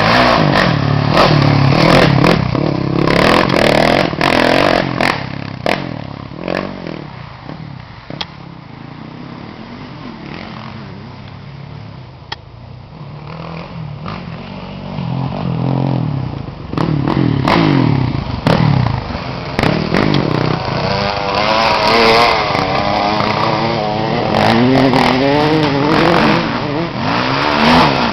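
Motocross bike engines revving hard and passing by, loud at first, dropping away for several seconds around the middle, then rising again with rapid up-and-down revving toward the end.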